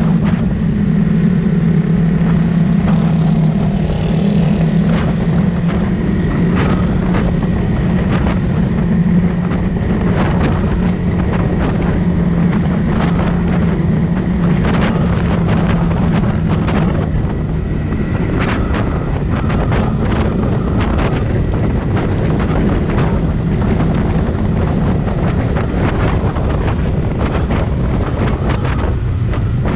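Suzuki Raider 150 Fi motorcycle's single-cylinder engine running steadily at cruising speed through an aftermarket Redleo exhaust, with wind noise over the microphone. The engine note softens a little about halfway through.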